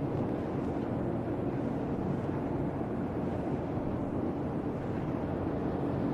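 Steady low rumbling background noise with no voice, heard in the pause between phrases of a recorded call to prayer.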